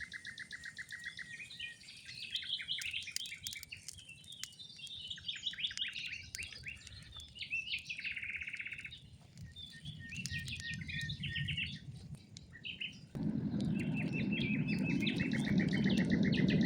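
Several songbirds singing in repeated trills and chirps. About thirteen seconds in, a louder low rushing noise comes in suddenly and stays under the birdsong.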